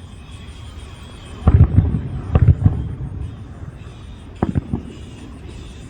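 Aerial fireworks shells bursting: a quick cluster of booms and cracks about a second and a half in, then another short round of bangs a little after four seconds.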